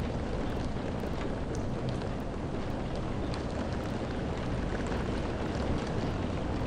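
Steady rain with a low rumbling undertone and scattered faint drop ticks.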